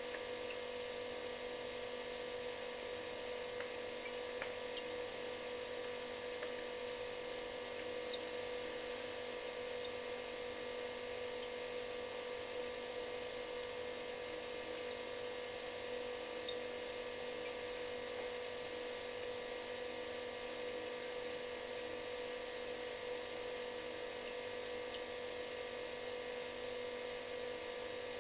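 Refrigerator running steadily: a constant buzzing hum with an even hiss above it, and a few faint ticks.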